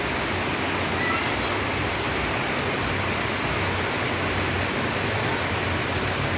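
Steady heavy rain, an even rushing hiss of falling water, with a faint short chirp about a second in.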